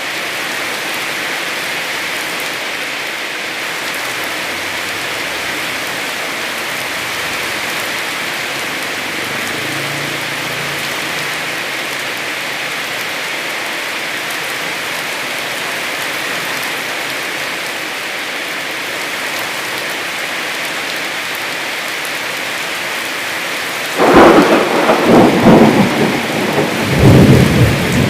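Heavy rain falling steadily as an even hiss. About four seconds before the end a loud clap of thunder breaks in and rolls on in several surges.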